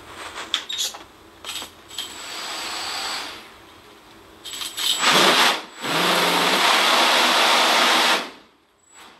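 Brushless RC motor spinning homemade propeller blades on an RC airboat. A few clicks come first, then a short run about two seconds in. From about five seconds it runs loud, with a rush of air, and stops sharply about a second before the end.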